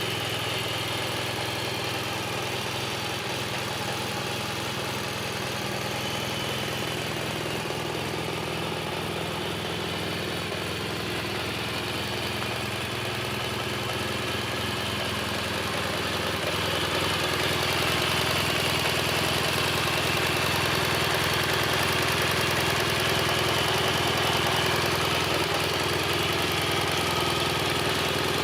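BMW R1200 GS flat-twin (boxer) engine idling steadily, a little louder from about sixteen seconds on.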